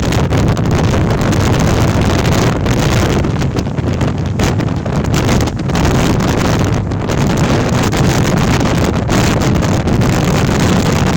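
Storm-force gale wind blowing hard across the microphone: loud, continuous buffeting wind noise, heaviest in the low end, with short lulls between gusts.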